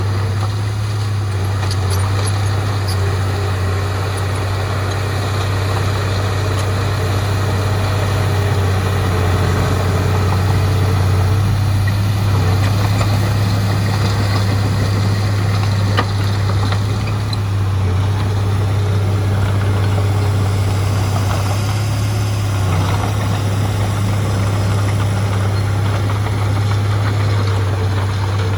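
Heavy diesel engine running steadily with an even low hum, with a single sharp knock a little past halfway.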